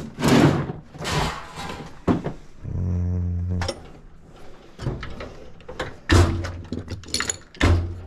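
Tool drawers sliding open and shut and tools being rummaged through, giving a string of knocks and clanks. A low steady hum lasts about a second, around three seconds in.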